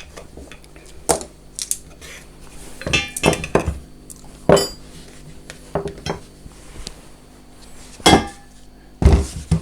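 Angle grinder and its fittings being handled: a series of separate clinks and knocks as parts are moved and set down, the loudest about halfway through and near the end.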